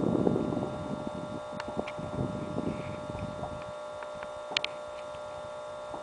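Fireworks: the rumble of a burst fades over the first second, then scattered crackling pops follow, with one sharper crack about four and a half seconds in.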